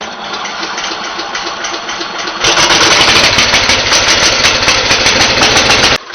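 Small vehicle engine running hard. It gets louder and harsher about two and a half seconds in, then cuts off abruptly near the end.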